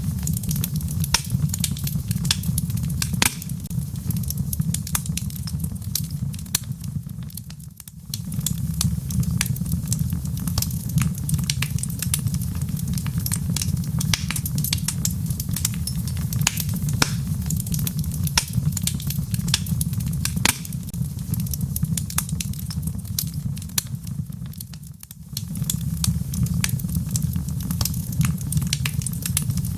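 Wood fire burning in a fireplace: logs crackling and popping with many sharp snaps over a steady low rumble of flame. The sound dips briefly twice, about 8 and 25 seconds in.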